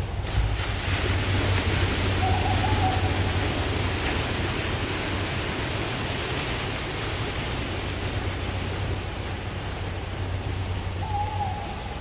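Waterfall rushing steadily with a deep rumble underneath. A short single-pitched call sounds twice over it, once about two and a half seconds in and again near the end.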